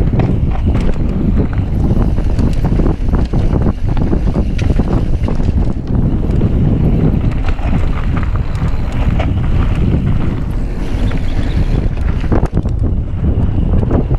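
Wind rushing over the microphone of a mountain biker's camera during a fast descent, with steady tyre rumble and frequent short clicks and knocks from the bike rattling over the rough trail.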